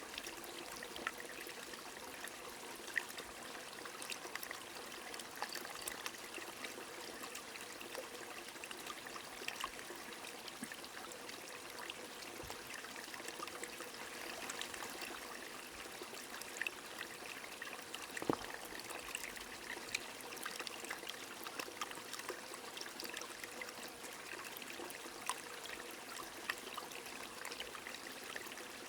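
A small stream running steadily with rain falling, many small drops ticking on top of the water sound and one louder drop a little past the middle.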